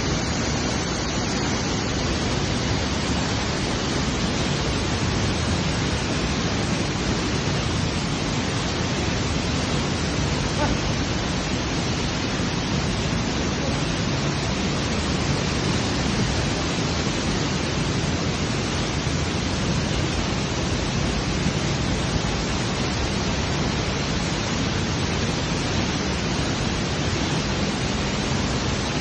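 Steady roar of a waterfall: an even, unbroken rush of falling water.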